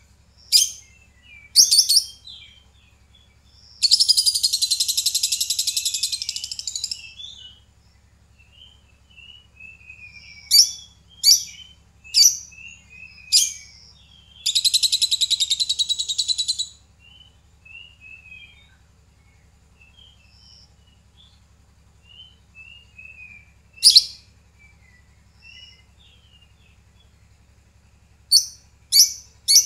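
Lovebird calling: loud, shrill single chirps, and twice a long, rapid trill lasting about three seconds, with soft twittering in between.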